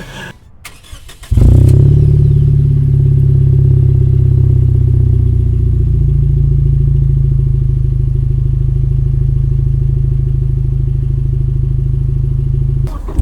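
Lexus RC engine with a Remark axle-back exhaust starting about a second in, then running at a steady idle with a deep, loud exhaust note. The sound dips briefly near the end.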